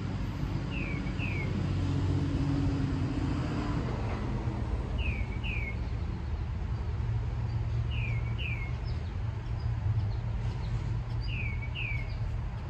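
A bird repeats a short two-note call, two quick falling chirps, four times at even intervals, over a low steady vehicle rumble.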